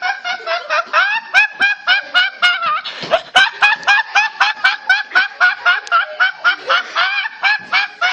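High-pitched, rapid cackling laughter, about five short cackles a second, going on without a break.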